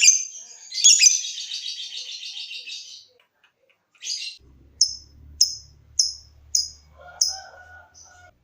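Lovebird singing: after a sharp opening call, it gives a fast rattling chatter of about two seconds (the 'ngekek' trill), then a run of six short, sharp chirps about half a second apart.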